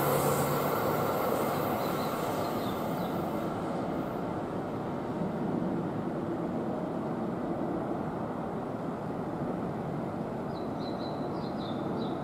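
A Keihan Main Line electric train running, its rumble and hiss slowly fading as it moves away. There are a few faint short high chirps about two seconds in and again near the end.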